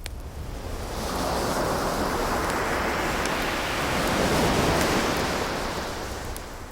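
An ocean wave surges in, building about a second in and fading away near the end, over a wood fire's sharp crackles and pops.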